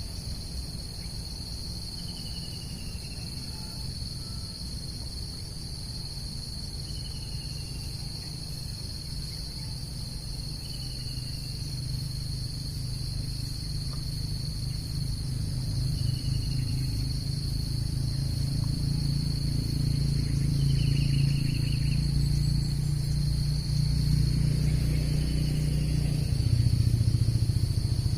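Steady chorus of crickets and other insects, with a short falling chirp repeating every few seconds. A low droning hum, like an engine, builds up from about halfway and grows louder.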